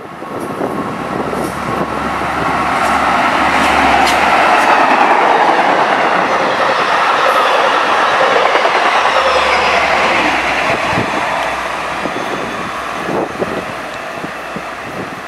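Commuter train of MARC II coaches with a DM30AC locomotive passing close at speed. Wheel and rail noise swells over the first few seconds and stays loud through the middle, with clickety-clack of wheels over rail joints, then eases as the train recedes.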